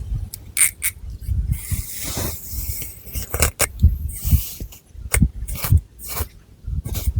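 Long fingernails scratching through thick hair and across the scalp close up: irregular crackling scrapes with soft low thuds, and longer brushing swishes about two and four seconds in.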